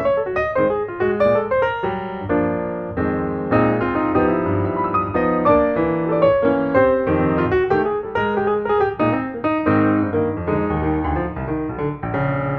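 Background piano music: a run of quick single notes giving way to sustained chords, then quick notes again near the end.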